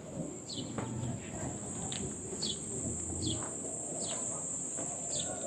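Short, high, falling chirps repeating about once or twice a second over a steady high-pitched buzz, like an insect or small bird calling, with a low murmur of background noise.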